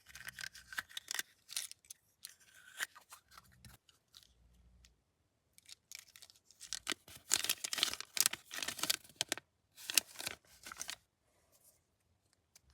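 A plastic candy wrapper being handled and torn open close to the microphone, crinkling and crackling in bursts. After a short lull in the middle comes the loudest, densest run of crackling, which stops a second or two before the end.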